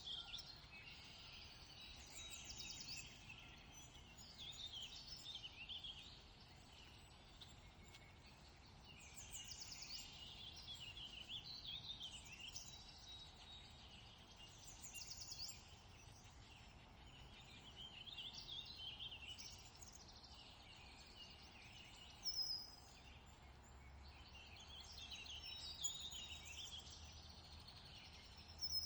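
Faint songbirds singing in repeated short chirping and trilling phrases, with two sharper single chirps near the end, over a quiet outdoor hush.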